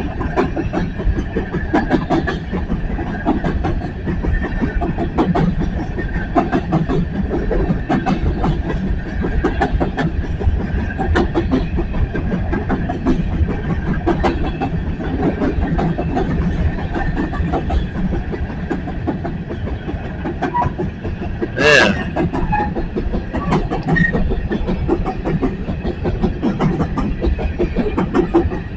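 BNSF coal train's cars rolling past, wheels clicking steadily over the rail joints over a constant rumble. About three-quarters of the way through, a brief squeal rises above it.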